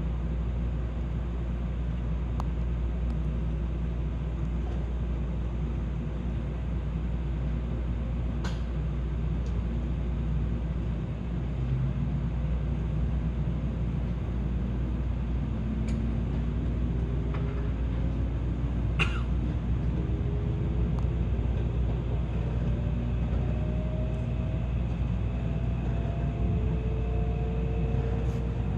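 Tokaido Shinkansen train running: a steady low rumble, joined about halfway through by a whine that rises in pitch, with a few sharp ticks.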